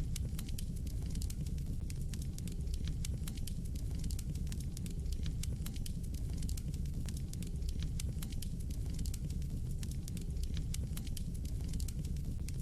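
Fire burning in a fireplace: frequent, irregular sharp crackles and pops over a steady low rumble of flame.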